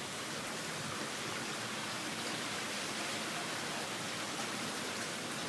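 Strong storm wind rushing steadily, an even hiss without gusts or breaks.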